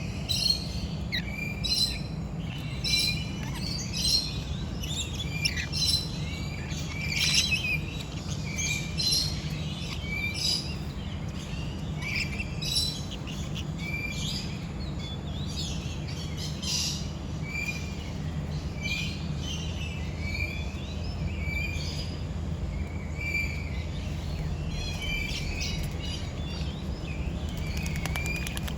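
Birds chirping and calling, many short repeated calls overlapping throughout, over a steady low hum.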